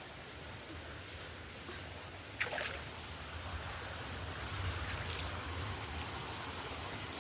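Steady rush of running water. A single sharp knock about two and a half seconds in, after which the water sound grows a little louder.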